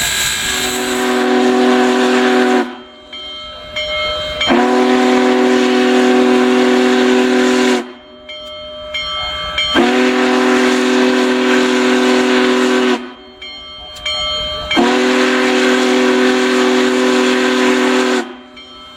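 Steam locomotive whistle on Union Pacific Big Boy 4014, sounding four long chord blasts of about two to three seconds each over a steady hiss.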